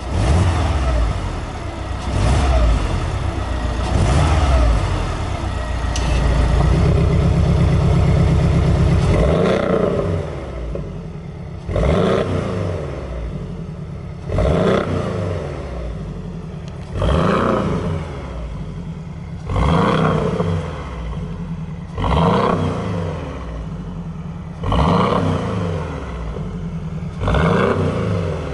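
Porsche 718 Boxster 2.0's turbocharged flat-four engine revving through an aftermarket valved sport exhaust. A few uneven revs, then a rev held high for about three seconds, then a string of quick throttle blips about every two and a half seconds, each rising and falling sharply.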